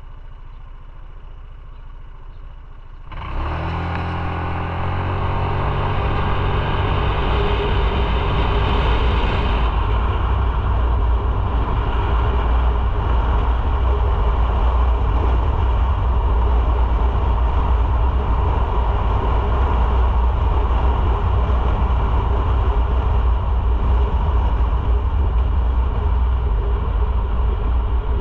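Motorcycle engine idling, then about three seconds in pulling away and accelerating, its pitch rising, and settling into a steady loud drone while riding.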